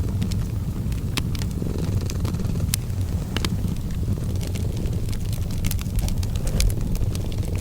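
A cat purring steadily, a low continuous rumble, with a fireplace crackling over it in scattered sharp pops.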